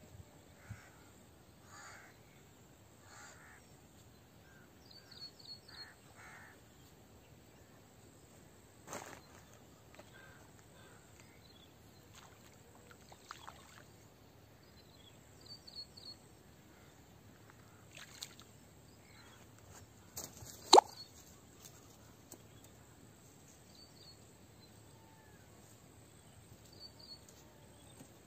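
Quiet outdoor ambience with birds calling now and then: a few harsh caws in the first six seconds and short high chirps later. A few sharp clicks are scattered through, the loudest a single crack about 21 seconds in.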